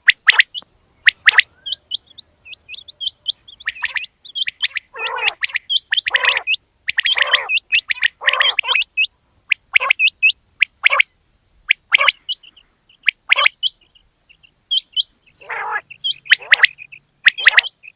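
Female quail calling: a quick, irregular run of short high chirps mixed with louder, harsher calls, with only brief pauses between them.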